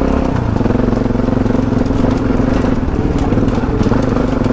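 Yamaha Ténéré adventure motorcycle engine running at steady low revs while riding along a stony dirt track.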